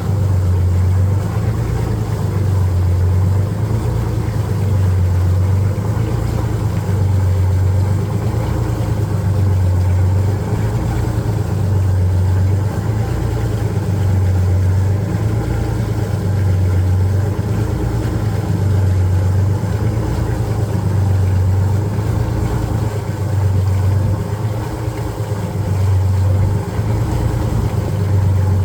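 Detroit Diesel 6-71ti two-stroke inline-six turbo diesel running steadily, most likely idling. It makes a deep drone that swells and fades about every two seconds. The engine is cold, with compression in the 350-375 range, which the owner takes as a sign it is due a rebuild.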